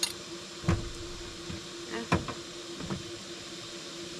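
A few sharp knocks and clunks, like objects being handled and set down, three of them over about two seconds, over a steady hum.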